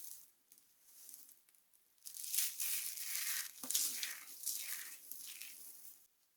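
Dry soap crunching and crumbling as it is crushed. The sound starts faintly, then about two seconds in becomes a run of crisp crunching swells lasting about four seconds, with one sharper crack in the middle.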